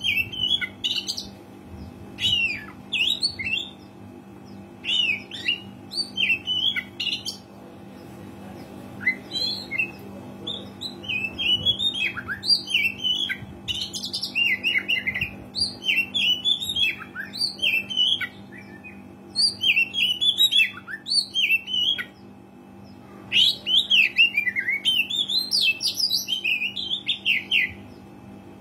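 Oriental magpie-robin singing loudly, quick bursts of varied whistled and chattering notes broken by short pauses, over a steady low hum.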